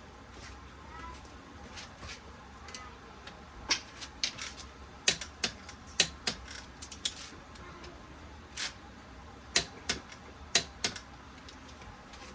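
Irregular sharp metallic clicks and taps of hand tools and engine parts being handled on a workbench, about a dozen in all, bunched in the middle and loudest twice near the end.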